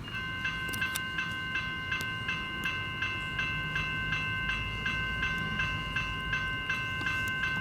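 Level crossing electronic warning bells (General Signals E-Bells) ringing as the crossing activates. The metallic chime starts right at the beginning and is struck about three times a second, each strike ringing on.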